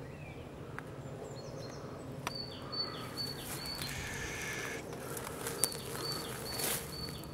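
A small songbird calling repeatedly with short high notes, each dropping in pitch, in groups of three or four, over rustling in dry brush that rises about three seconds in.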